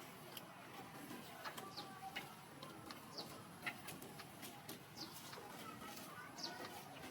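Faint bird chirps: short high notes, each falling in pitch, every second or so, over soft rustling and scattered light ticks.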